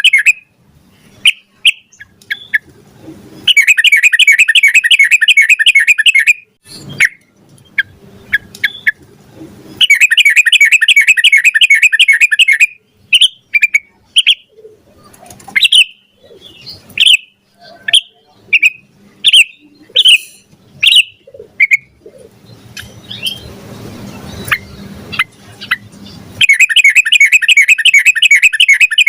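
Yellow-vented bulbul (trucukan) singing: three long, rapid warbled phrases of about three seconds each, with short separate chirps between them. This is the long, fast 'ropel' song of a bird in full voice.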